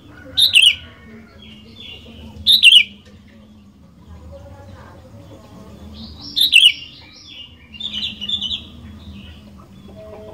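Sooty-headed bulbul (kutilang) singing: loud, short, falling whistled phrases about half a second in, near three seconds and near seven seconds, with softer chattering phrases between them.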